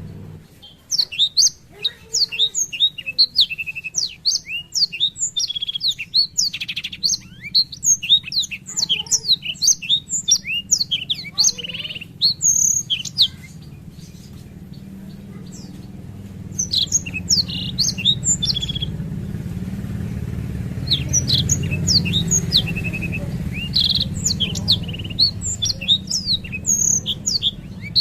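Black-throated canary (blackthroat) singing a fast, rolling run of high chirps and trills in long bursts, breaking off for a couple of seconds about halfway through before resuming. A steady low hum runs underneath.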